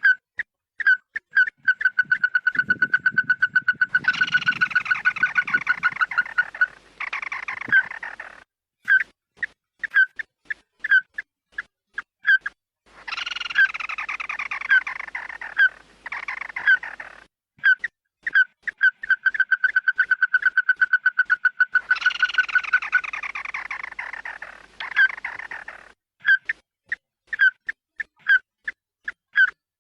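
Bird-lure recording of "chim mắt đỏ" calls. Sharp single notes come about two a second, broken by rapid trills and by harsh, scratchy, falling phrases, in a repeating sequence.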